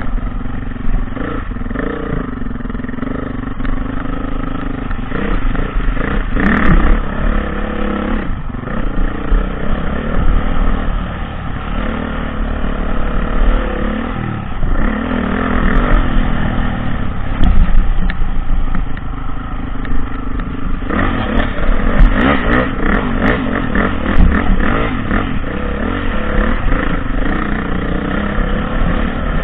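Dirt bike engine revving up and down as the bike is ridden off-road, with a few sharp knocks along the way.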